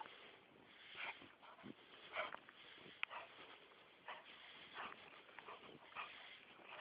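A dog playing in snow: faint, short noisy sounds coming about once a second.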